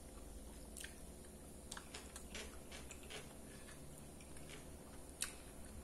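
Quiet, close-up chewing of a soft mouthful of beans and rice, with many small wet mouth clicks and one sharper click about five seconds in.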